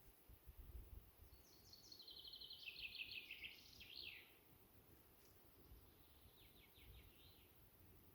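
A songbird singing: a rapid phrase of notes that steps downward in pitch, then a fainter, shorter phrase a couple of seconds later, over a faint low rumble.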